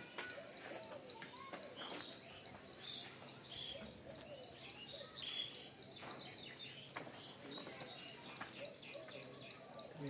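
A small bird chirping in a steady, rapid series, about four high chirps a second, over faint farmyard background noise.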